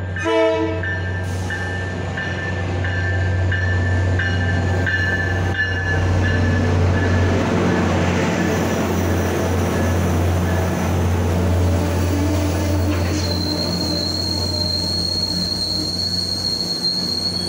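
MBTA commuter rail train pulling into the station: a steady low diesel hum and a rising rumble as the coaches pass close, with the bell striking at a steady beat for the first five seconds or so. From about three-quarters of the way through, a steady high squeal as the brakes slow the train to a stop.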